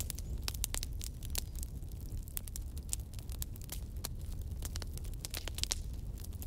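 Wood fire crackling: a steady low rumble of flames with many sharp irregular pops and snaps, several a second.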